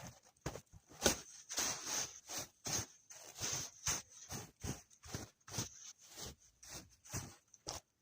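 Footsteps crunching through frozen snow in a quick walking rhythm, about two steps a second.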